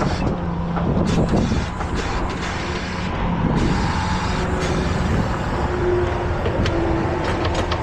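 Heavy truck engine running steadily at idle, with scattered clicks and knocks of hook-up work on top.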